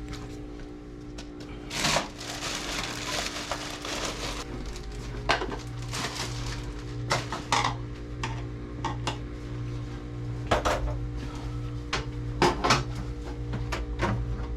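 Scattered sharp metal clinks and knocks over a steady low hum, with a stretch of rustling hiss about two seconds in.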